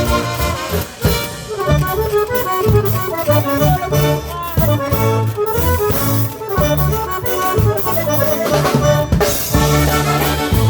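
Polka band playing an instrumental passage, an accordion carrying the melody over a bouncing bass line and drums.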